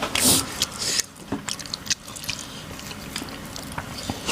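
Close-miked mouth sounds of eating a soft, chewy food: wet chewing and small mouth clicks, with a short hissy burst in the first second.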